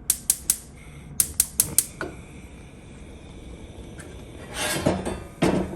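Gas stove burner igniter clicking in two quick runs, three clicks and then four, as the burner is lit, with a short breathy noise near the end.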